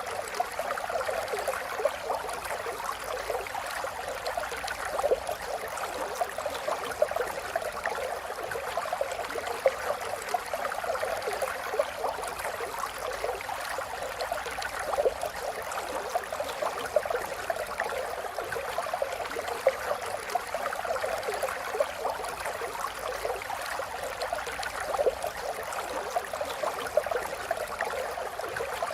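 Running water of a small stream trickling steadily, with many small quick splashes and gurgles.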